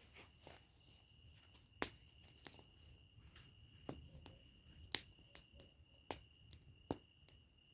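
Campfire crackling: irregular sharp pops and snaps of burning wood, a few louder ones standing out, over a faint steady high tone.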